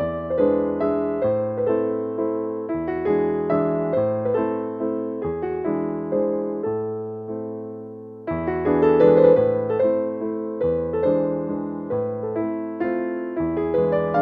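Gentle piano music, with notes struck over a slowly changing bass line. It thins out and fades about seven seconds in, then picks up again a second later.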